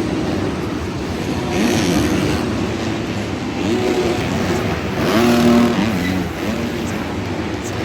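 Several motocross bikes racing around a stadium track, their engines revving up and down over a steady background din. Two louder swells come, one about a second and a half in and one around five seconds, as bikes rev hard.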